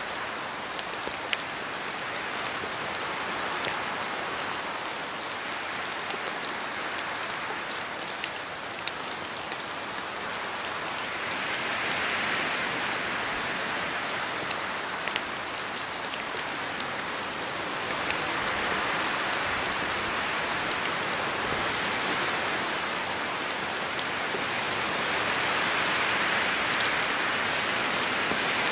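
Steady rain falling, with the sharp ticks of single drops hitting close by; it swells louder a few times.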